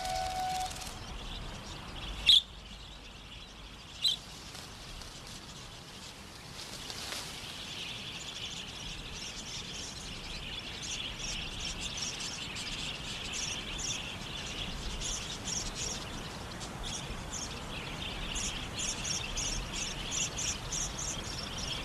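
Budgerigars chirping. Two sharp single calls come a couple of seconds apart, then, several seconds in, a run of rapid high chirps that grows denser.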